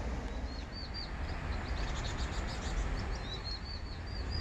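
Small birds chirping: a run of short high curved notes, several a second, starting about a second in, over low outdoor background noise.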